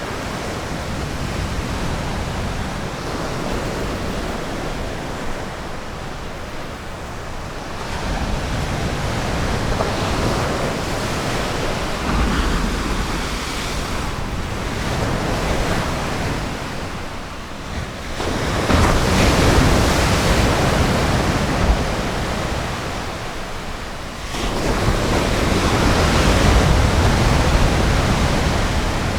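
Ocean surf breaking on a beach, a steady wash of noise that swells with each wave, with the biggest surges late on. A low rumble of wind on the microphone runs under it.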